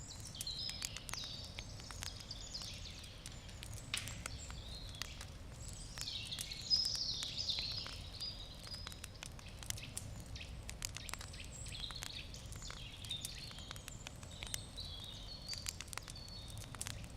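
Wood campfire crackling with scattered sharp pops, while birds chirp and sing. The birdsong is loudest a little past the middle.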